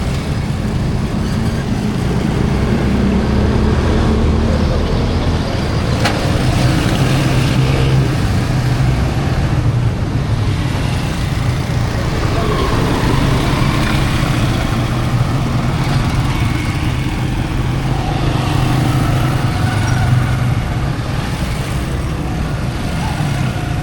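Street traffic: motor vehicle engines running with a steady low hum, and voices mixed in.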